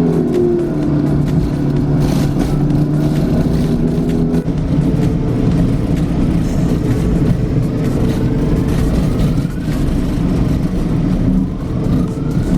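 Bus engine and road noise while riding, with a rising whine later on as the bus picks up speed.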